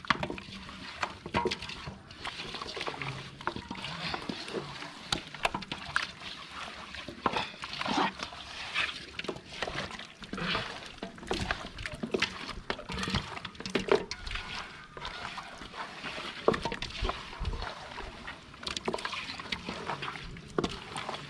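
Wet, irregular squelching and sloshing of hands mixing chicken leg pieces in a thick egg and cornflour marinade.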